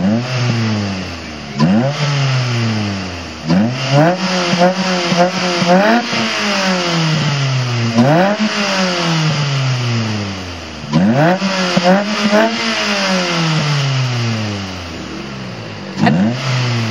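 Ford Fiesta ST with a Piper cat-back exhaust and K&N induction kit being free-revved repeatedly: sharp blips of the throttle, each rising quickly and then falling back towards idle, with runs of quick successive blips twice. No pops or bangs on the overrun.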